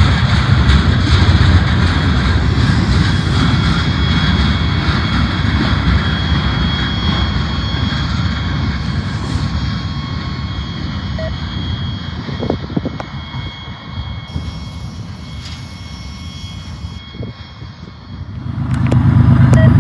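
Freight train running past, a loud low rumble with thin steady high tones over it that slowly fades away. Near the end a loud low rumble rises sharply again.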